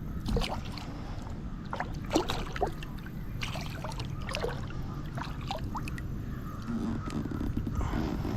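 Water sloshing and trickling around a kayak, with scattered short drips.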